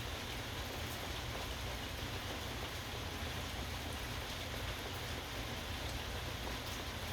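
Steady rain falling, an even hiss with a few scattered distinct drops.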